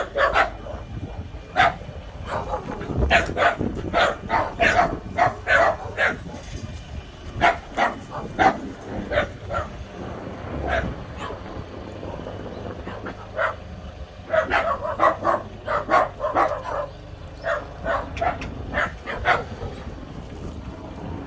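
A dog barking over and over in runs of short, quick barks, with a lull about halfway through.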